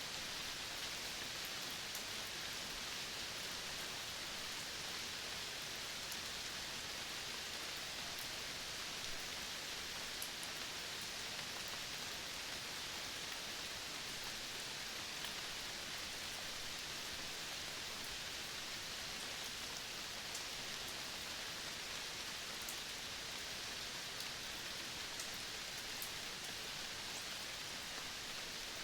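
Steady outdoor nature ambience: an even, unbroken hiss strongest in the upper range, with faint scattered ticks now and then.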